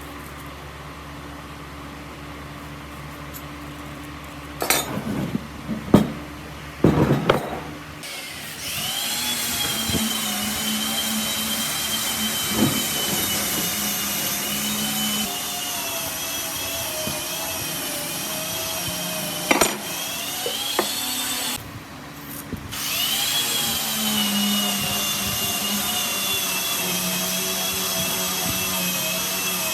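Electric power tool working wood: a few knocks and clatters, then the motor starts about eight seconds in with a whine whose pitch sags and recovers as it bites into the wood. It stops briefly a little past the middle, then spins up again and runs on.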